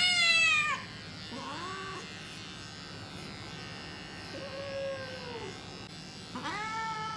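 A cat meowing about four times, high-pitched calls that bend in pitch, the first trailing off under a second in, over the steady buzz of electric pet clippers shaving its fur.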